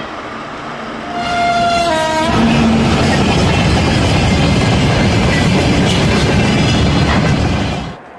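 Locomotive horn (typhon) sounding for about a second, its pitch stepping down slightly near the end, followed by the loud steady rumble of a train passing, which cuts off suddenly near the end.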